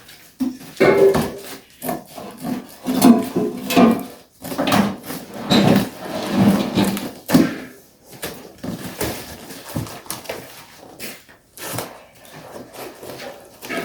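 Knocks, clicks and scraping as a homemade brooding box is handled and its parts moved about, busiest in the first half and sparser after about eight seconds.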